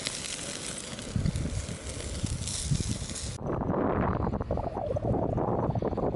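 Wind blowing on the microphone: a steady hiss over a low buffeting rumble, which changes abruptly about three and a half seconds in to a duller, muffled rush without the hiss.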